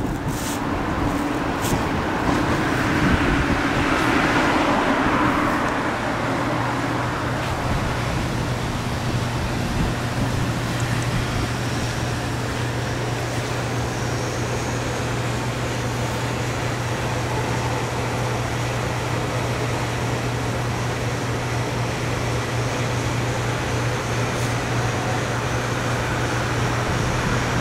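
Freight train cars rolling across a steel truss railway bridge: a steady rumble of wheels on the rails, a little louder in the first few seconds, then settling into an even run with a constant low hum.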